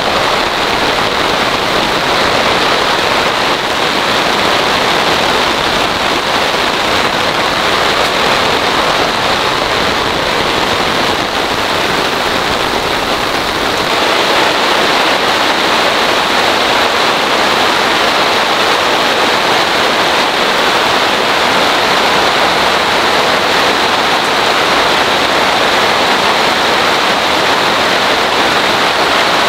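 Heavy rain pouring down in a steady hiss, getting a little louder about halfway through.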